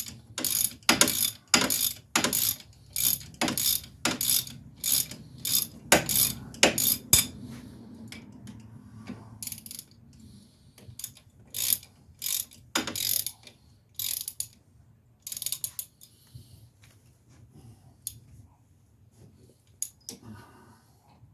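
Hand ratchet wrench being swung back and forth on a bolt during a wheel bearing job, each return stroke a quick burst of clicks. The strokes come about two and a half a second for the first seven seconds, then slower and scattered.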